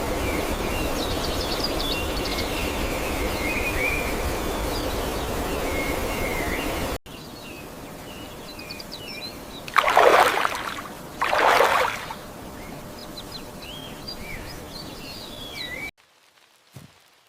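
Small birds chirping and twittering over a steady rushing noise. About seven seconds in, the noise drops abruptly while the chirps go on, and two loud rushing bursts of about a second each come a second and a half apart. Near the end the sound cuts to near silence with a few faint clicks.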